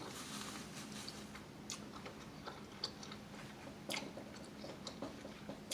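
Close-miked chewing: slow, soft mouth sounds with scattered small wet clicks, the loudest about four seconds in, over a faint steady hum.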